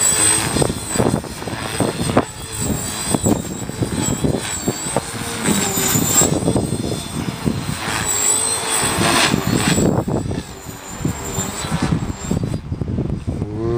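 Align T-Rex 450 Pro electric RC helicopter flying: a high motor and rotor whine that wavers in pitch as it manoeuvres, with wind gusting over the microphone.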